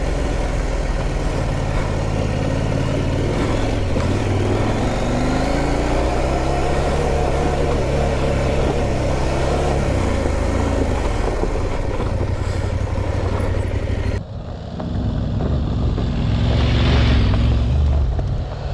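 Parallel-twin adventure motorcycle engine running under way on a rough off-road lane, its revs rising briefly about five seconds in. About fourteen seconds in the sound changes abruptly and the engine continues with surges of wind-like hiss.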